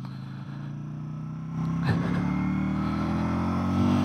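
Mitt custom motorcycle's twin-cylinder engine running on the road. It gets louder about one and a half seconds in, with a short knock just after, then its pitch rises steadily as the bike accelerates.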